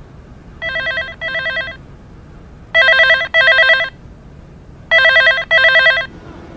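A phone ringing in a repeated double ring, each ring a fast electronic trill. Three pairs of rings come about two seconds apart, and the last two pairs are louder.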